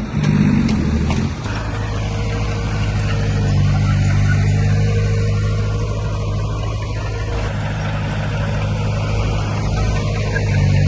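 Diesel engine of heavy earthmoving machinery running steadily under load, a low even drone that settles in about a second and a half in.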